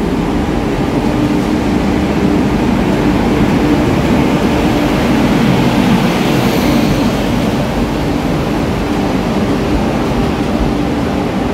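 Express passenger train, 12802 Purushottam Express, pulling into the platform and running past at slow speed: a steady loud rumble of wheels on rails with a low hum. It grows brighter and louder as the locomotive passes about six seconds in, then the coaches roll by.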